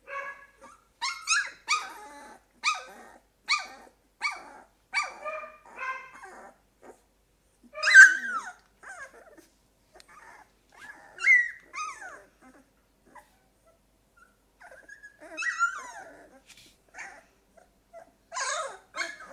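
Two-week-old golden retriever puppies whining and yelping in short, high-pitched cries at irregular intervals, with a quiet spell a little past the middle.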